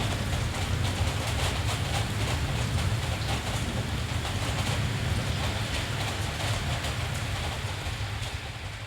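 Steady rain hiss over a continuous deep low rumble, the sound of a rainstorm over a city, fading down near the end.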